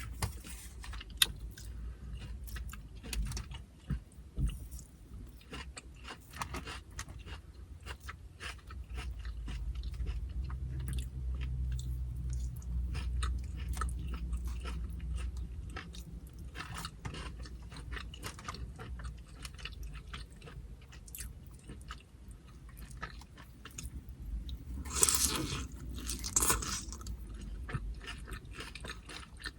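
Close-up chewing and crunching of carne asada chips: crisp tortilla-chip bites and crunches scattered throughout, louder for a couple of seconds near the end, over a steady low hum.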